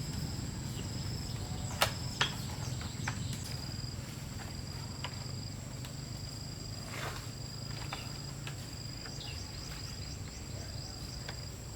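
Insects, crickets or similar, trilling steadily in two continuous high-pitched tones. A few sharp knocks stand out, the loudest two about two seconds in.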